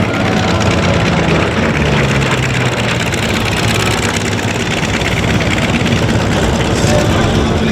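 Curtiss P-40N Warhawk's Allison V-1710 V-12 piston engine running steadily, its pitch dropping a little about two seconds in.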